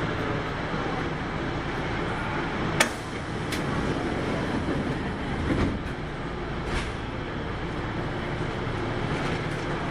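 Cabin running sound of a Kintetsu 8810 series electric train: a steady rumble of wheels on rail, with a sharp click about three seconds in and a few fainter clicks after it.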